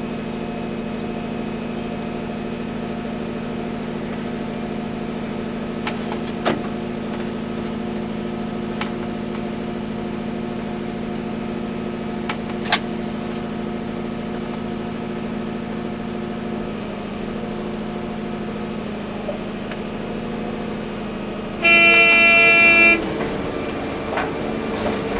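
Volvo EC240B excavator's diesel engine running steadily, with a few sharp clicks. Near the end a horn blasts once for about a second, louder than the engine.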